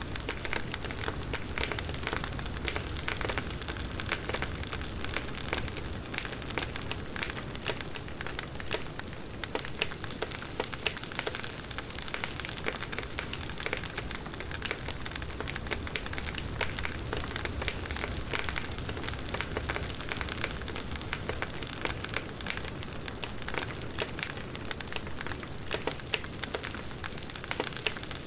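Campfire burning, its wood crackling and popping in quick, uneven clicks over a steady hiss.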